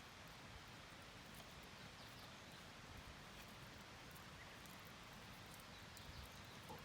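Near silence: faint, even outdoor background hiss with a couple of faint ticks near the end.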